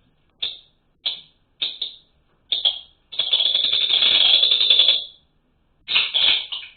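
A small songbird calling with a run of short, high chirps about every half second, then a rapid trill lasting about two seconds, followed by more chirps near the end.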